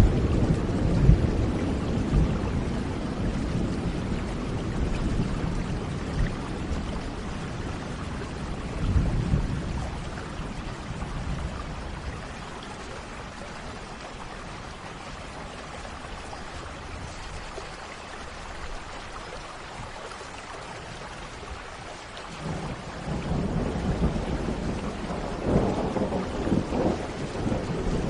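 Thunderstorm: steady rain with rolling thunder. A rumble fades over the first several seconds, a shorter one comes about nine seconds in, and after a quieter spell of rain the thunder rolls in again in the last few seconds, with sharper claps near the end.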